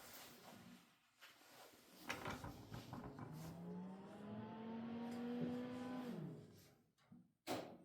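Miele T1 heat-pump tumble dryer starting its cycle: the drum motor spins up about two seconds in with a rising hum, runs steadily for a few seconds, then winds down and stops. A sharp click follows near the end.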